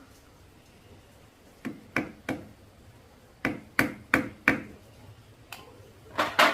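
A string of sharp taps and knocks from tools and parts being handled during motorcycle repair work: three about two seconds in, four more closely spaced a second or so later, one single tap, then a quick pair near the end.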